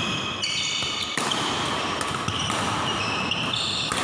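Badminton rally on an indoor court: repeated high, short shoe squeaks on the court floor, with sharp racket hits on the shuttlecock about a second in and again near the end.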